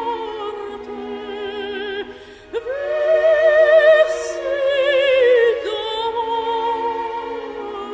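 Operatic singing in a high voice with wide vibrato over sustained accompaniment. About two and a half seconds in there is a brief break, then the voice swells onto a loud held high note that falls away near the six-second mark.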